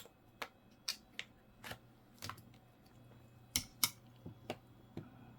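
About a dozen light, irregular clicks and taps of small objects being handled on a desk, the loudest two together about three and a half seconds in.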